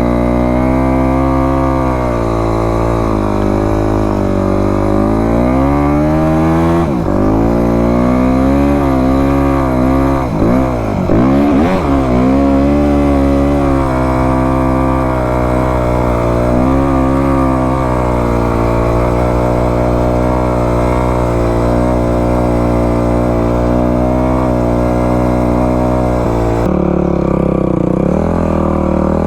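Isuzu D-Max pickup engine running under load through soft beach sand, its revs rising and falling several times, with a sharp dip and climb about ten seconds in. The sound changes abruptly near the end.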